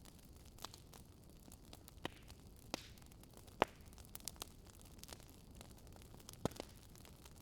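Wood fire crackling softly over a low steady hiss, with scattered sharp pops, the loudest about halfway through.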